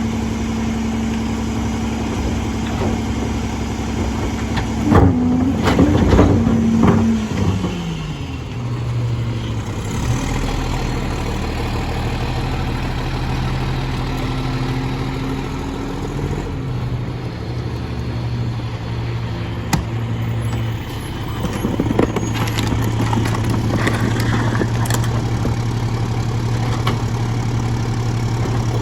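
Mack LE garbage truck's diesel engine held at a raised speed, then winding down to a lower idle about seven seconds in, and running steadily after that. Metallic clanks and bangs come about five to seven seconds in and again later.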